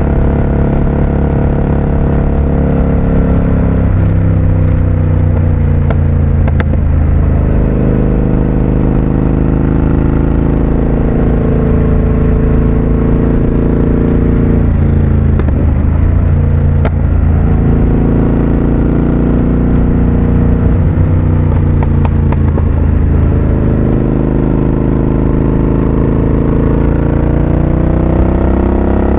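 Triumph Speed Twin 1200's 1200 cc parallel-twin engine running under way, its pitch sliding down and climbing back several times as the rider rolls off and gets back on the throttle through the bends. There are a few brief clicks along the way.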